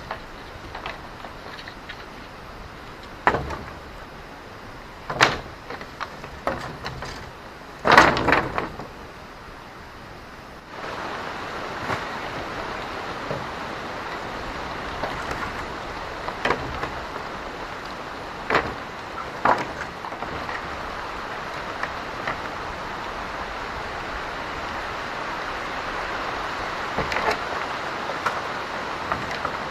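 Scattered knocks and thuds, a few seconds apart. About a third of the way in a steady hiss suddenly comes up and stays under them.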